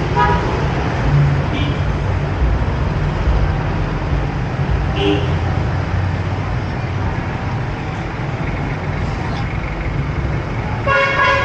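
Downtown street traffic: a steady low rumble of passing vehicle engines, with a few brief horn toots and a louder car horn honk near the end.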